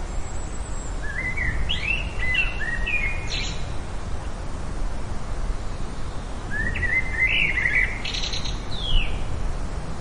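A songbird singing two quick warbling phrases of rising and falling notes, a few seconds apart, over a steady low background rumble.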